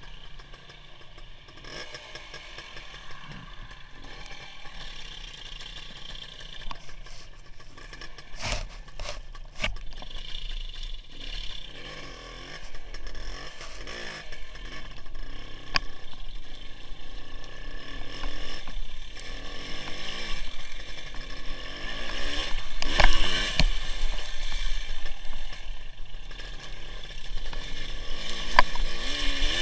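WSK 175 motorcycle's single-cylinder two-stroke engine running on the move, growing louder through the stretch, with a few sharp knocks and rattles.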